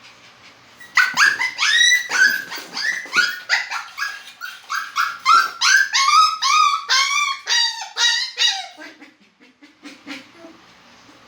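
A Poodle giving a rapid run of high-pitched yelping whines, two or three a second, for about eight seconds. The cries sink lower in pitch toward the end and then stop.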